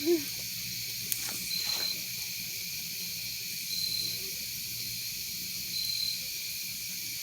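Night insects calling: a steady high-pitched chorus with a short chirp repeating about every two seconds. A single sharp click about a second in.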